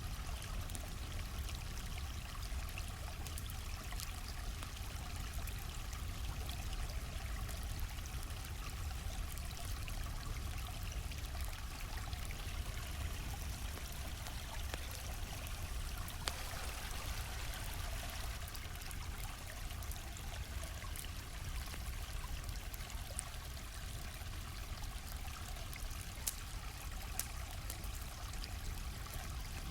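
A stream flowing steadily, with now and then a sharp pop or crackle from a campfire, a few louder ones in the second half.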